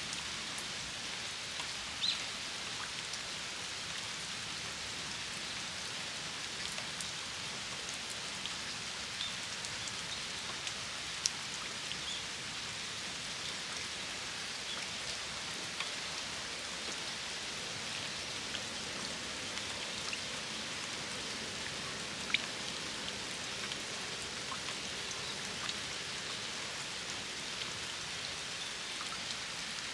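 Steady rain falling around a flower-filled shrine hand-washing basin: an even hiss with scattered single drops pattering on water and surfaces. A few louder drop hits stand out about two, eleven and twenty-two seconds in.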